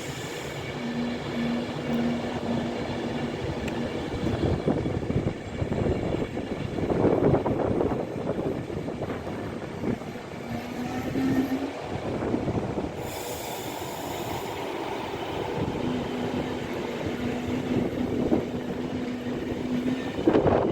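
Class 390 Pendolino electric train running into the platform and slowing, with rail and wheel noise that swells and eases. A low tone pulses in short dashes several times, and a brief hiss comes about 13 seconds in.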